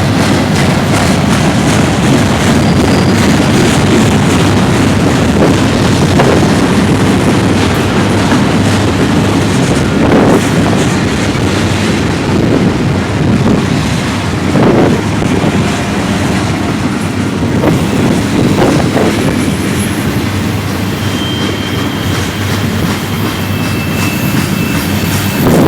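Freight cars of a manifest train rolling past, a loud, steady rumble and clatter of wheels on rail. A faint high wheel squeal comes in near the end.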